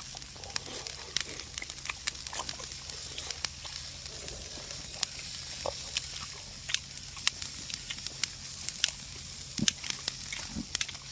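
Pork belly sizzling on a grill over a wood and charcoal fire, a steady hiss with irregular sharp pops and crackles.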